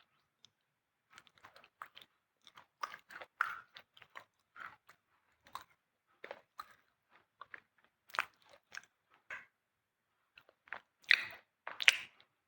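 Close-up crunching of a hard, dry white material, bitten and chewed in irregular crisp cracks. The loudest crunches come near the end.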